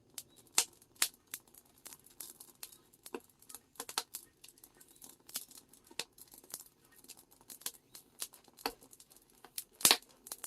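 Irregular crackling and rustling of dry tea leaves being stirred and roasted by hand in a hot cast-iron cauldron, with sharp cracks several times a second.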